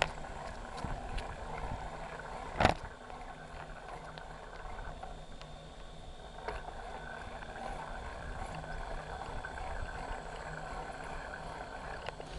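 Bicycle being ridden along a trail, heard from the handlebars: a steady rattle and tyre noise, with a sharp clatter about three seconds in and lighter knocks later.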